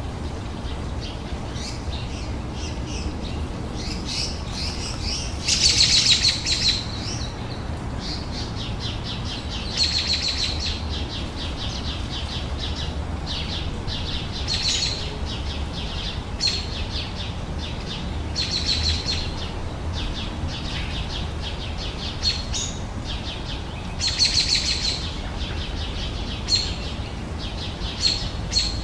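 Songbirds singing in trilled phrases that recur every few seconds, the loudest a few seconds in and again near the end, over a steady low rumble.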